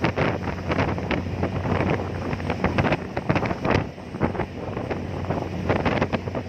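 Strong wind buffeting the microphone in uneven gusts, with the ferry's engine running steadily underneath.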